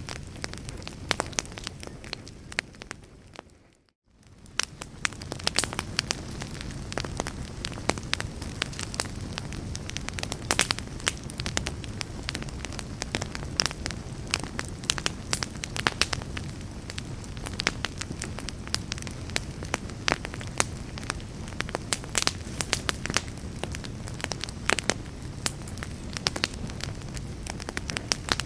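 Campfire crackling, with many sharp pops and snaps over a steady low rumble of the flames. About four seconds in, the sound fades briefly to near silence and swells back in.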